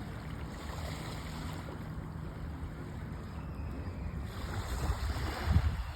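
Sea waves washing on the beach, with wind rumbling on the microphone; a wave swells and breaks louder near the end.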